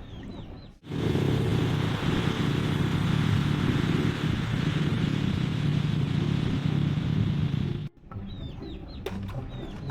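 Motorcycle engine sound effect running steadily for about seven seconds, cutting in sharply about a second in and cutting off abruptly near the end.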